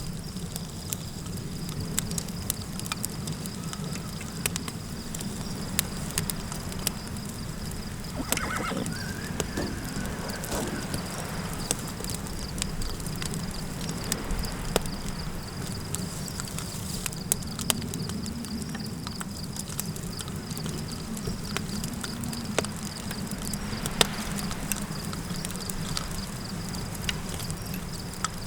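Campfire crackling over a low, steady wind rumble and a thin, steady high tone. About eight seconds in, a horse whinnies once, a call that falls in pitch and lasts about two seconds.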